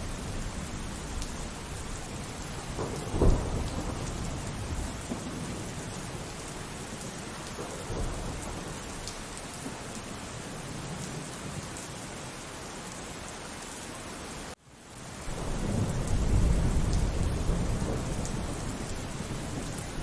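Steady heavy rain with thunder: one sharp clap about three seconds in, and a long rolling rumble in the last few seconds, which is the loudest part. Midway the sound cuts out for an instant.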